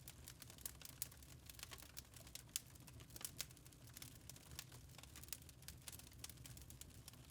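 Wood fire crackling softly in a fireplace: irregular sharp snaps and pops, a few louder ones, over a low steady hum.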